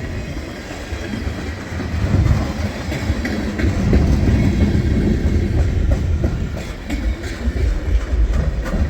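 Freight train cars rolling past with a steady low rumble, which gets louder about two seconds in, and the wheels clicking over rail joints, the clicks coming thicker near the end.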